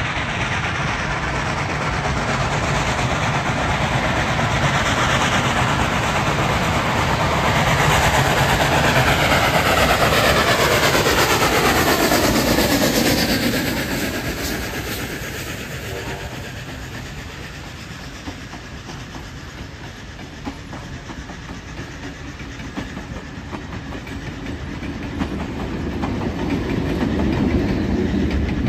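A train passing close by: its noise builds, is loudest about ten seconds in, and drops with a falling whine as it goes past, then fades. The sound builds again near the end.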